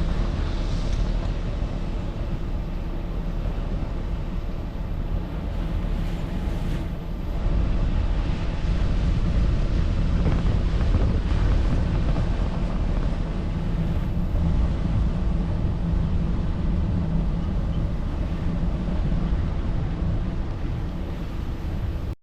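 Steady low rumble of a moving vehicle, with wind buffeting the microphone; it grows a little louder about a third of the way in.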